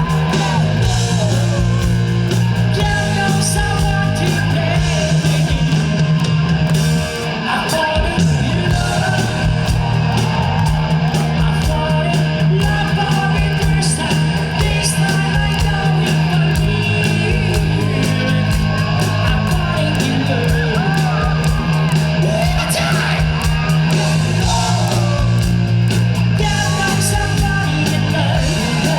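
Live rock band playing loudly: electric guitar, bass and drums with a singer's sustained, bending vocal lines. The level dips briefly about seven seconds in.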